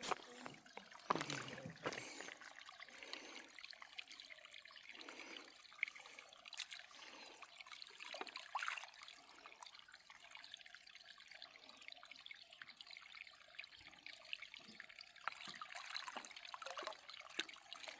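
Water trickling and splashing faintly, with small scattered clicks and taps.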